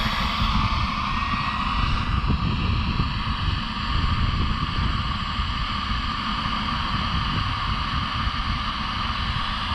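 Small RC model jet turbine running steadily after start-up: a steady rushing hiss with a held mid-pitched tone, over a low, uneven rumble. A faint, very high whine climbs and fades out about half a second in.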